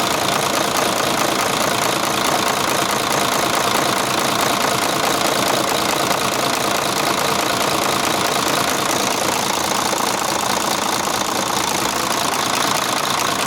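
Mercedes-Benz Actros truck diesel engine running steadily at idle, with a dense even clatter.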